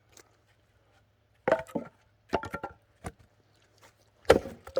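Axe chopping firewood: sharp wooden impacts, with a strike about a second and a half in, a quick run of knocks and clatter as pieces come apart around two and a half seconds, and the loudest strike near the end.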